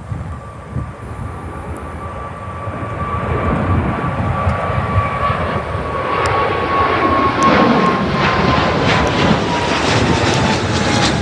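Boeing 777 airliner taking off, its jet engines getting steadily louder as it climbs toward and over the listener. A single high whine holds steady, then falls in pitch over the last few seconds as the plane passes. Wind rumbles on the microphone underneath.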